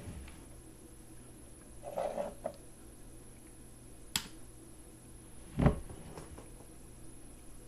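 A few handling sounds over a faint steady hum: a muffled knock about two seconds in, a sharp click about two seconds later, and a louder low thump soon after.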